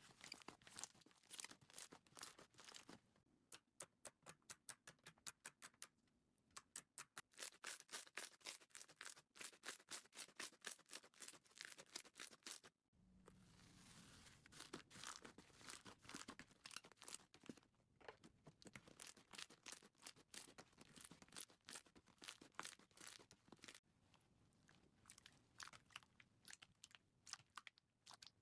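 Quiet, close-up crackling and popping of slime being squeezed and poked by hands. In the first half it comes as a regular run of quick pops, about five a second; after a break about halfway through it turns to denser crackling.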